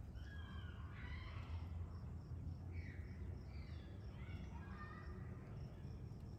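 Birds chirping in scattered short warbling phrases, with a string of short high notes repeating evenly, over a steady low rumble.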